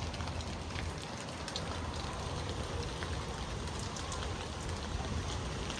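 Steady rain falling during a severe thunderstorm, with scattered drops tapping close by and a low, unsteady rumble of wind gusting on the microphone.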